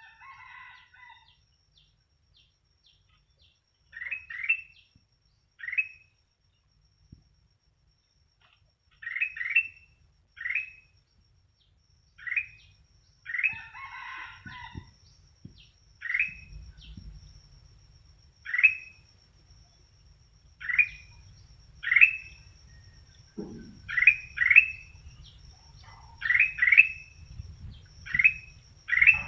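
Kutilang emas, a bulbul, calling with short bright upslurred notes, singly or in quick pairs, repeated every second or two and coming faster toward the end. A low steady hum joins in about halfway through.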